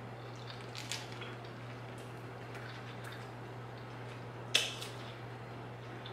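Close-up wet mouth sounds of eating fresh spring rolls: soft chewing and lip smacks, with a sharper smack about four and a half seconds in. A steady low hum runs underneath.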